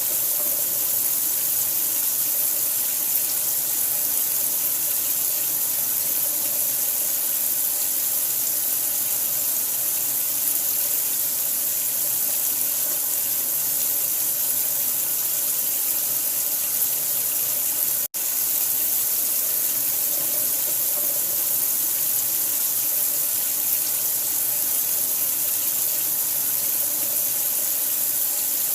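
Running water, a steady hiss that is strongest in the highs. It drops out for an instant about eighteen seconds in.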